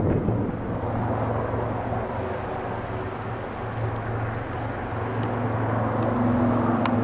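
A display aircraft's engines droning steadily overhead, easing off slightly midway and building again toward the end.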